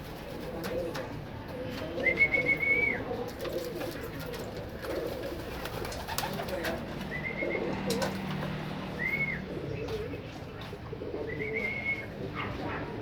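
Pigeons cooing in a loft, a steady low murmur throughout, with four short high-pitched calls scattered across it.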